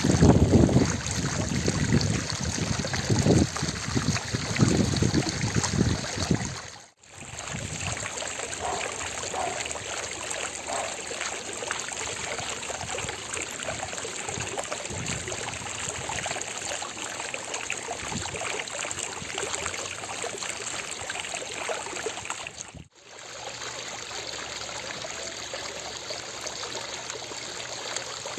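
Water fountain splashing and trickling steadily into its basin. It is louder and deeper for the first several seconds, then even; the sound drops out briefly twice, about seven seconds in and again late on.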